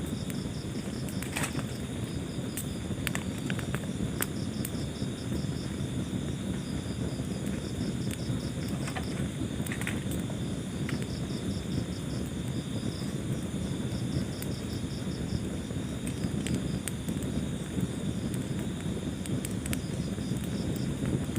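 Wood fire burning in a fireplace: a steady low rumble with scattered crackles and pops. Throughout, a cricket chirps in repeated trains of quick high pulses.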